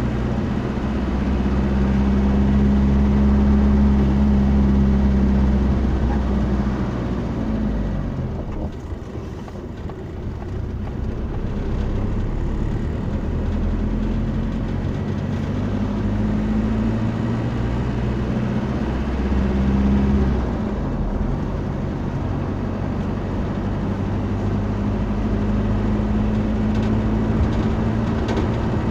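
Vehicle engine running over a steady rush of road noise. The engine pitch falls and rises a couple of times, as in speed or gear changes.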